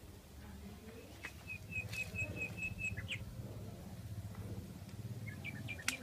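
A small bird calling: a quick, even run of about eight high chirps lasting over a second, then a few more short chirps near the end, over a low rumble, with one sharp click just before the end.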